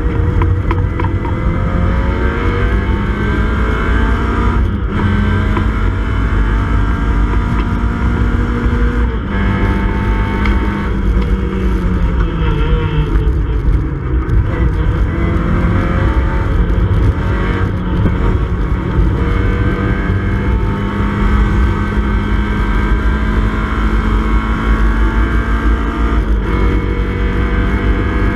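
Mini Cooper S race car's engine at racing speed, heard from inside the cabin: revs climb to an upshift about five seconds in, fall and build again through a corner midway, and drop at another upshift near the end.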